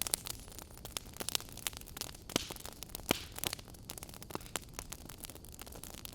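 Wood fire crackling in a fireplace: irregular sharp pops and snaps over a steady low hiss, with a few louder pops midway.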